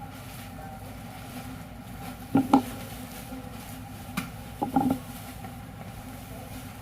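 Steady machine hum, broken by short knocks: a double knock about two and a half seconds in, a tick just after four seconds, and another double knock near five seconds.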